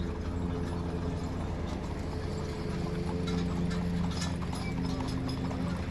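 Mules' hooves clip-clopping at a walk as a team pulls a wagon past, many irregular hoof strikes over a steady low hum.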